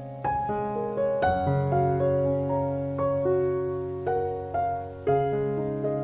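Background piano music: gentle single notes struck every half second or so, each fading away, over held low bass notes.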